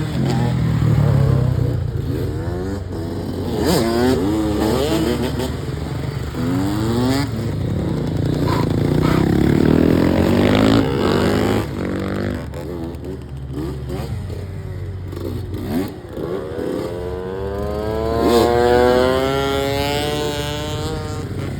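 300cc two-stroke supermoto motorcycle engine revving, its pitch climbing and dropping repeatedly, with a long rising pull near the end.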